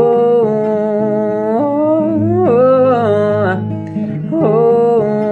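Acoustic guitar accompaniment with a male voice singing a few wordless, held and gliding phrases.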